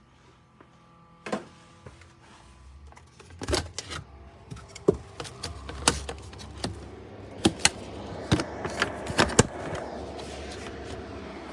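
Portable air conditioner's fan running, its rush building from near quiet over the first few seconds and then holding steady, with scattered sharp clicks and knocks throughout.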